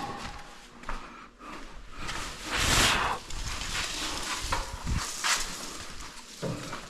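Scattered knocks and handling noise, with one brief, louder scraping rush about three seconds in.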